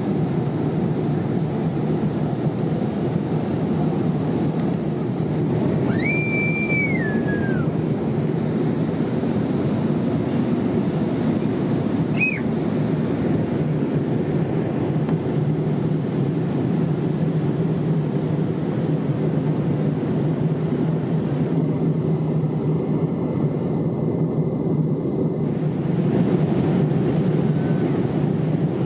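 Steady low rushing drone inside the cabin of a Boeing 787-8 airliner in flight: engine and airflow noise heard from a window seat. A short high tone sounds about six seconds in and falls off at its end, and a brief chirp follows about twelve seconds in.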